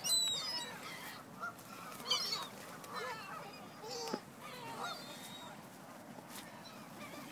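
A flock of ducks and other waterbirds calling, short scattered calls overlapping, some high and some lower, as the birds crowd in to be fed.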